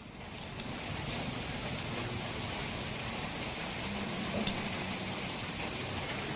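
Heavy rain falling steadily, an even downpour.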